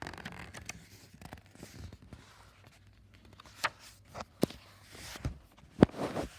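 Handling of a book between pages: paper rustling and sliding as a page is turned, then a few sharp knocks and taps from about three and a half seconds in.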